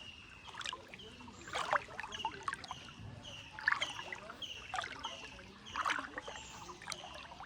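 Water splashing in strokes about every two seconds as a boat is propelled through floodwater, with short high falling chirps repeating throughout.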